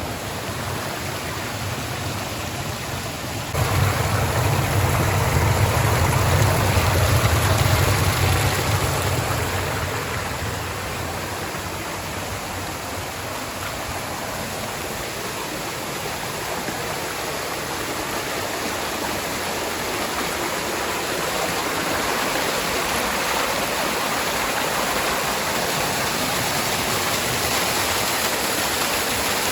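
Rushing water of a waterfall or mountain stream, a continuous hiss. About three and a half seconds in it suddenly gets louder, with a deep rumble that fades over the next several seconds.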